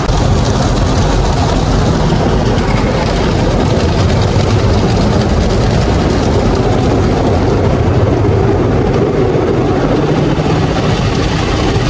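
Steady, loud mechanical noise: a low rumble with a rushing hiss on top, unbroken throughout.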